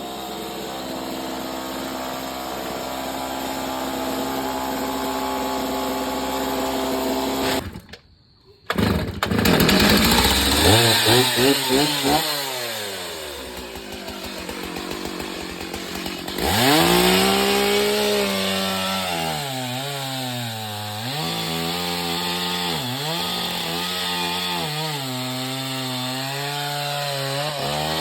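Two-stroke chainsaw running: first at a steady speed, then cutting out briefly about eight seconds in. It then revs up and down several times, and then runs under load cutting wood, its pitch dipping and recovering every couple of seconds as the chain bites.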